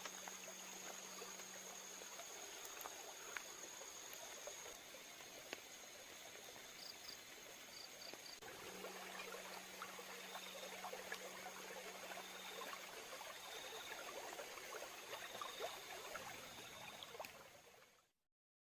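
Faint riverside forest ambience: a river flowing steadily, with a thin steady insect trill over it and a few short high chirps. It all fades out near the end.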